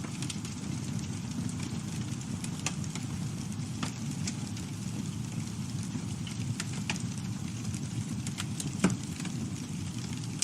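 Campfire burning steadily, a low rumble of flames with scattered crackles and pops from the burning wood, one louder pop nearly nine seconds in.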